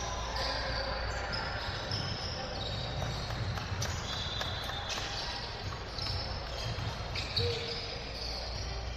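Live basketball game sounds in a gym: a basketball bouncing on the court, short high-pitched sneaker squeaks scattered throughout, and a steady background of crowd voices.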